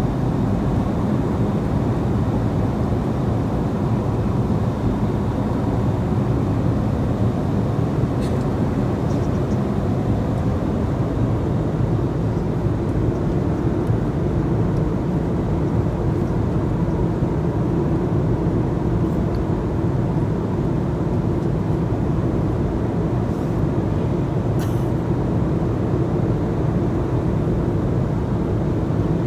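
Steady airliner cabin noise in flight: the low, even drone of the engines and rushing air, with a couple of faint light clicks.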